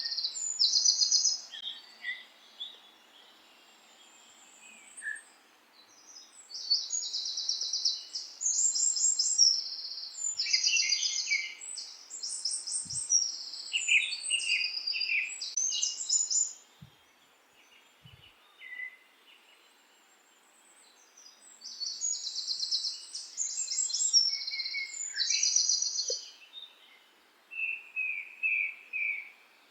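Songbirds singing: phrases of high, rapid trilled notes, a few seconds each, with short pauses between them, over a faint steady background hiss.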